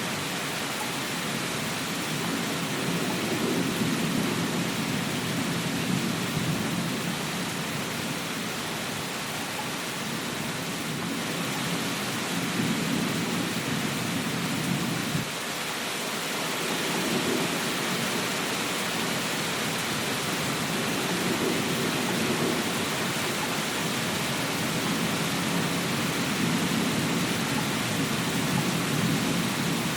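Steady heavy rain with low rolling rumbles of distant thunder that swell and fade every few seconds, with a brief lull about fifteen seconds in.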